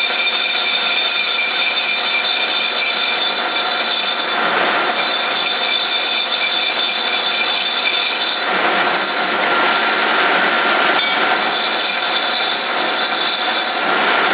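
Stanko 1K62 lathe running while a hand-fed parting-off tool cuts into a bronze bushing: a steady mechanical din with a few high steady tones over it. The cutting noise swells about four seconds in and again about eight seconds in.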